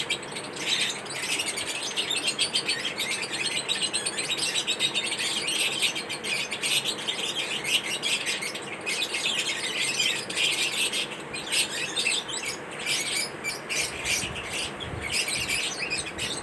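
Lovebirds chirping in rapid, continuous high-pitched chatter, several birds calling over one another.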